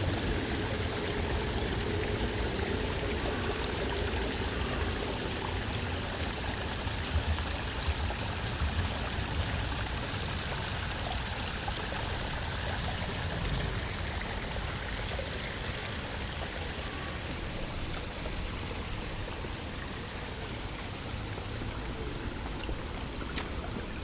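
Steady rush of running, splashing water, its high hiss fading somewhat over the second half.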